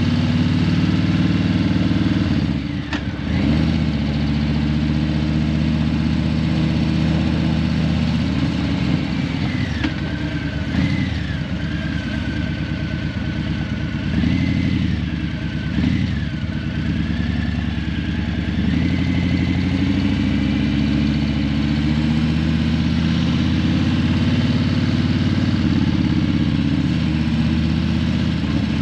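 Harley-Davidson Breakout 117's Milwaukee-Eight 117 V-twin running under way through Vance & Hines Eliminator 300 slip-on exhausts. The engine note drops briefly about three seconds in and a few more times between ten and sixteen seconds, then climbs in pitch again near the twenty-second mark, as throttle is closed and reopened. A faint wavering high tone sits under it in the middle section.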